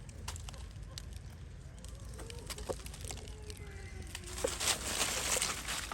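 Monkeys giving short squeaks and calls over scattered clicks, with a louder burst of rustling about four and a half seconds in.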